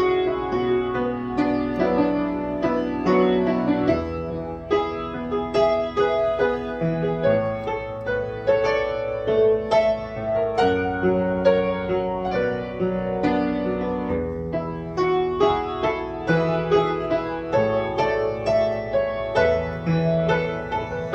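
Piano playing the instrumental interlude of a slow Korean ballad: struck chords over a stepping bass line, with no singing.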